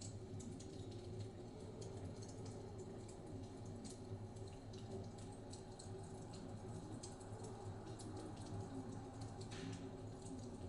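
Wood fire crackling in a fireplace: many small, irregular pops and snaps over a low, steady rumble, with a brief hiss near the end.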